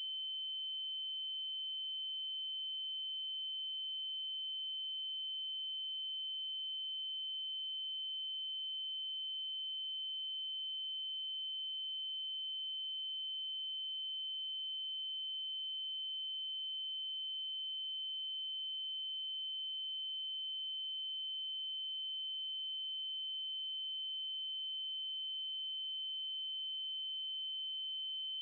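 Synthesized 3072 Hz triangle-wave tone, one high pitch held steady without change.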